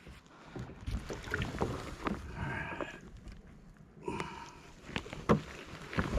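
Scattered knocks and bumps on the plastic hull of a sit-on-top fishing kayak on the water, with two brief higher-pitched sounds partway through.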